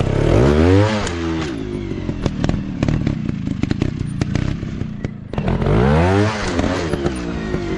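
Four-stroke trail dirt bike engine revving hard twice, each time the pitch rising and then falling away, between which it runs at a lower, steady speed, with clattering and knocking from the bike over rough ground.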